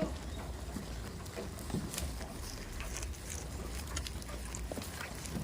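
A steady low rumble with a few faint, scattered clicks and rustles; no bleating.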